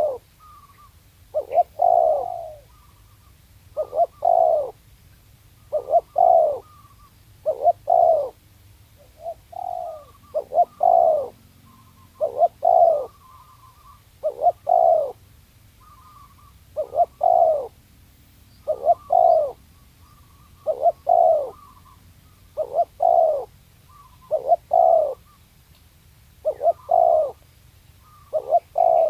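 Spotted dove cooing: its call of two or three short notes, each falling slightly in pitch, repeats about every two seconds.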